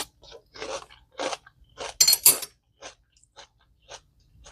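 Big spoon stirring a bowl of chicken salad: a run of short, wet scraping strokes about two a second, with two sharper, brighter ones close together about two seconds in.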